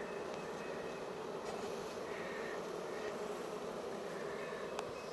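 A swarm of honey bees buzzing around a hive box they have just been moved into: a dense, steady hum of many bees in flight.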